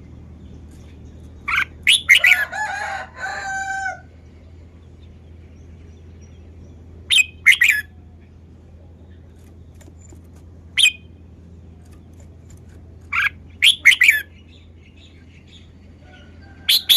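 Red-whiskered bulbul singing short phrases of quick whistled notes in five separate bursts a few seconds apart, the first and longest about two seconds in. A steady low hum lies underneath.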